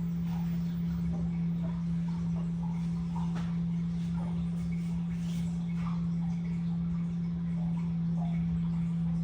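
LG WT16WV6 top-load washing machine running, with a steady low hum that holds constant throughout.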